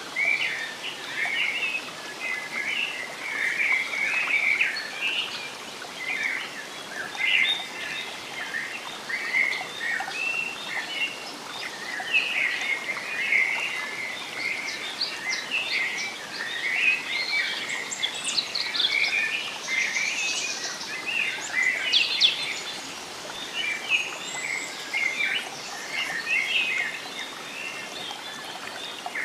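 Forest bird chorus: many birds chirping and calling without a break, with a few higher, sharper calls about two-thirds of the way through, over a soft steady hiss.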